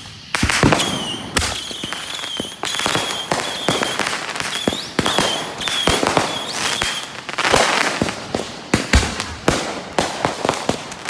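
Consumer fireworks going off: a string of sharp bangs and pops with bursts of crackling. A high, warbling whistle runs through the first seven seconds or so, then stops.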